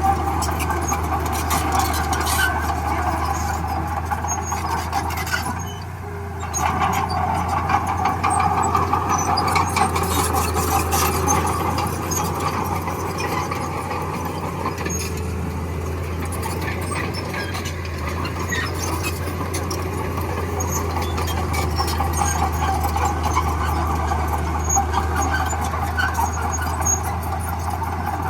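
Crawler bulldozer at work: its diesel engine runs steadily under a busy metallic track noise, which dips briefly about six seconds in.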